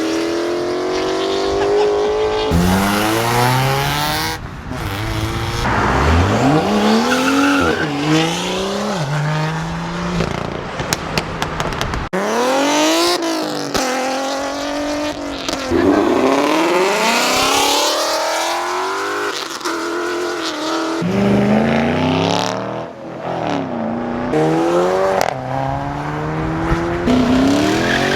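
Several modified car engines revving hard and accelerating away one after another. Each engine's pitch sweeps up and falls back again and again, and the sound changes abruptly from one car to the next every few seconds.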